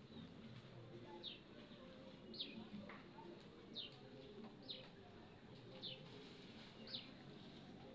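A bird calling with a short, high chirp that falls in pitch, repeated about six times, roughly once a second, over a faint low background murmur.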